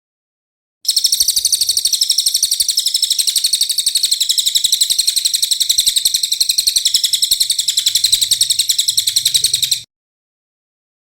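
Songbird's recorded 'tembakan kasar' (rough burst) call for bird training: a fast, even run of harsh high notes, about ten a second. It starts about a second in and cuts off abruptly near the end.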